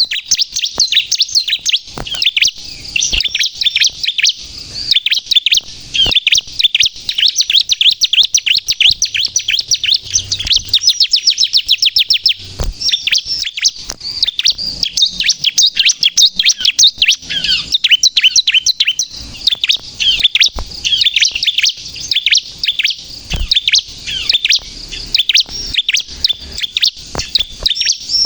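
Bar-winged prinia (ciblek) singing in full, non-stop 'gacor' song: a fast, continuous run of sharp high chirping notes. This is the kind of song used to call and provoke rival prinias.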